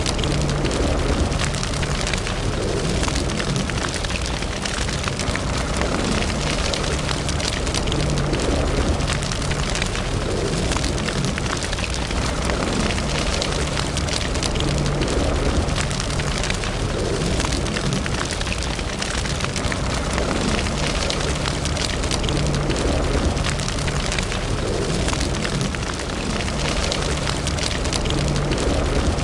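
Wood fire burning in a fireplace: a steady low rumble of flame with constant small crackles and pops.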